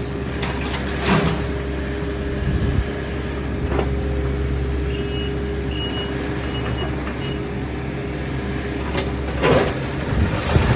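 Heavy diesel machinery running with a steady low rumble and hum, with scattered sharp knocks, the loudest near the end. Four short high beeps sound in the middle.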